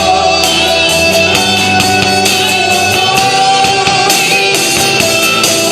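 Worship band music between sung lines: guitar and keyboard chords over a steady beat with tambourine.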